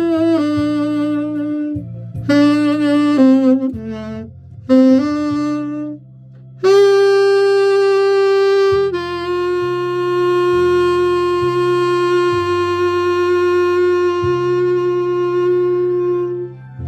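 Saxophone playing a slow melody with vibrato over a backing track: a few short phrases, then one long held note of about ten seconds that stops shortly before the end.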